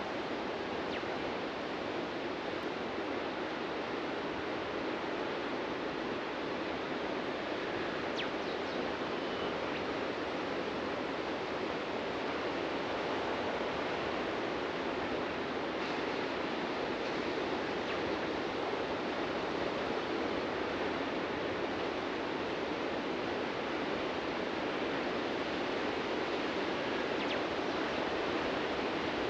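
Ocean surf washing onto a beach: a steady, continuous hiss of breaking waves with no separate surges standing out.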